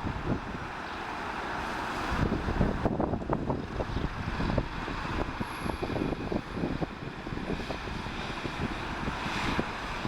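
Wind buffeting the microphone in gusts over the steady rumble of jet airliner engines.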